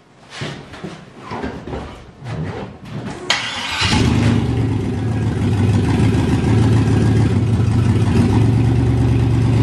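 Model T pickup hot rod's engine running unevenly for about three seconds, then a sharp crack and the engine held loud and steady at high revs in a burnout.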